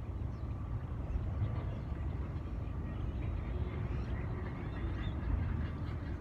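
Distant rumble of a Southwest Boeing 737's jet engines on its takeoff roll, a steady low noise that wavers in strength. A few faint bird chirps come through above it.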